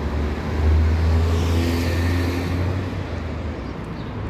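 A motor vehicle's engine running close by on the street, a low drone that is loudest about a second in and eases off toward the end.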